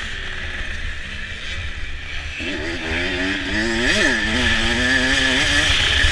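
Motocross bike engine running over a steady low rumble. Its pitch swells about two seconds in, rises sharply to a peak about four seconds in, then drops back.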